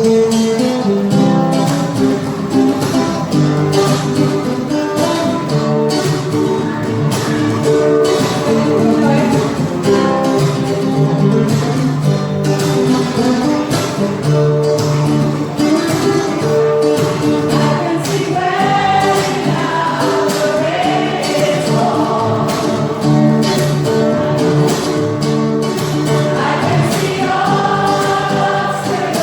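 Choir singing with instrumental accompaniment and a steady percussive beat.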